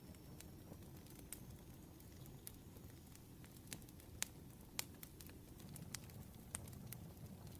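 Wood fire crackling softly: irregular sharp pops over a low rumble, with the two loudest pops a little past the middle.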